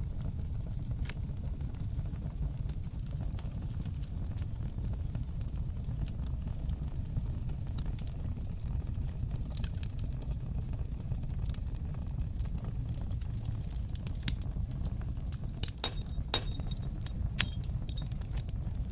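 Wood fire burning in a fireplace: a steady low rumble of flames with scattered sharp crackles and pops from the burning wood. The pops grow thicker and louder near the end, with one loud pop just before it ends.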